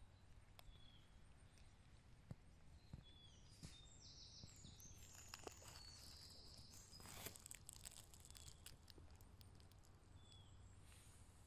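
Faint woodland ambience: a small bird repeats a short falling call every two to three seconds, with a brief spell of busier, higher chirping around the middle. Scattered small clicks and crackles sit over a low rumble.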